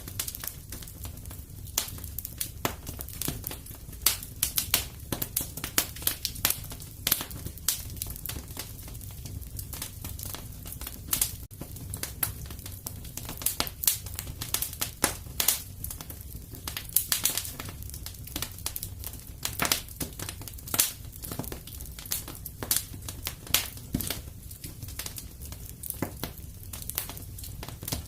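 Fire in a fireplace crackling, with irregular sharp pops several times a second over a low steady rumble.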